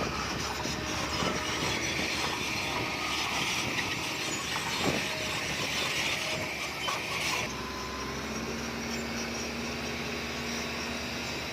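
Komatsu D20P crawler bulldozer at work: the diesel engine running under steel tracks that squeal and clank. The high squeal stops abruptly about two-thirds of the way through, leaving the engine's steady hum.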